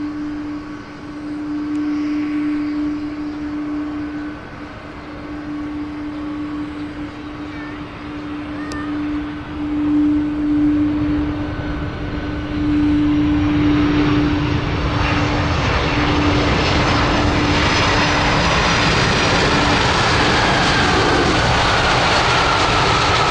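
Boeing 767-300 jet airliner engines: a steady hum, then engine noise that swells about halfway through and stays loud, with a whine falling in pitch near the end as the jet passes.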